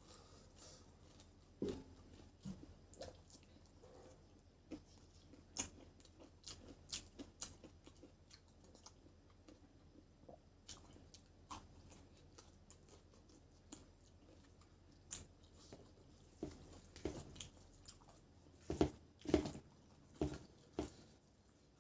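A person chewing and biting food close to the microphone: soft wet clicks and the odd crunch, with a run of louder bites near the end.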